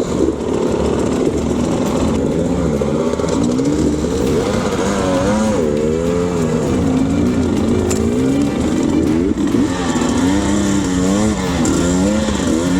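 Dirt bike engine revving up and down over and over as the throttle is worked hard through deep mud.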